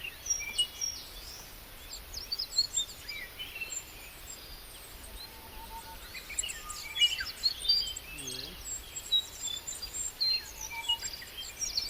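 Several small birds chirping and singing, with many short high calls and quick sweeping notes overlapping, over a steady outdoor background hiss. A faint lower call sounds briefly about eight seconds in.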